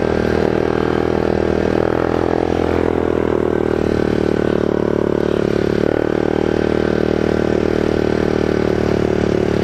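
Motorcycle engine running at a steady pace while riding, with a slight shift in pitch a couple of times.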